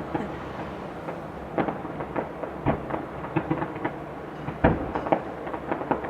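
Distant fireworks bursting over a city: an irregular string of bangs, about one or two a second, the loudest about three-quarters of the way through, each with a short echoing tail.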